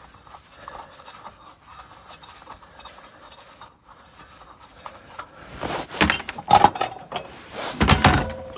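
Fumbling with gloved hands: about five seconds in, a run of irregular clinks, clatters and scrapes as things are handled, with a heavy thump near the end. No engine is running.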